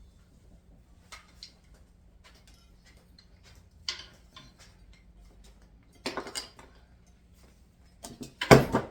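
Light clicks and clatter of hard objects being handled, in a few scattered taps and two short runs of clatter, the louder one near the end.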